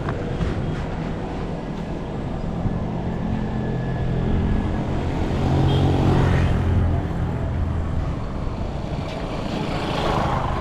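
Street traffic: a motor vehicle's engine running close by, growing louder to a peak about halfway through as it passes, then fading.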